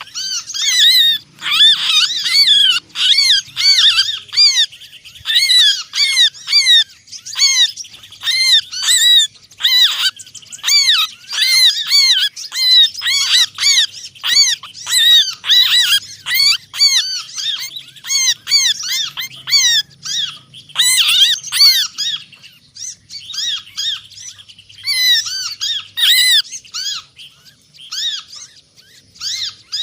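Dense chorus of many small songbirds giving rapid, overlapping chirps and calls: a bird-lure recording of agitated alarm calls and trapped-bird distress cries, made to draw other small birds in close.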